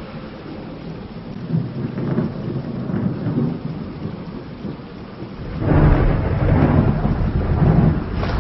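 Thunder rumbling over steady rain, with a louder, deeper roll of thunder starting a little past halfway and lasting a couple of seconds.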